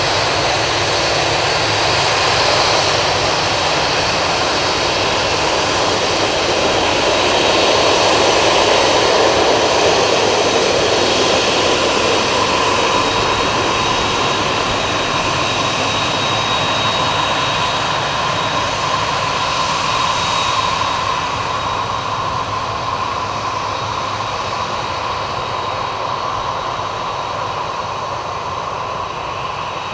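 Boeing 767's twin turbofan jet engines running loud and close: a steady roar with a high, even whine. It swells about a third of the way in, then slowly eases off.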